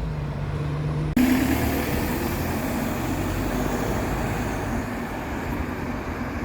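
Bus engine running amid street traffic. The sound changes suddenly about a second in to a noisier traffic sound with a low hum, then cuts off.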